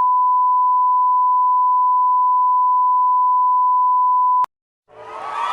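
A steady, loud electronic beep: one unbroken pure tone at a single high pitch, like a censor bleep or test tone. It cuts off sharply after about four and a half seconds. Near the end, stadium crowd noise fades in.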